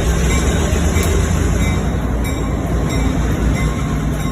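A passenger train in motion, heard from aboard: a steady low rumble of the cars rolling along the track.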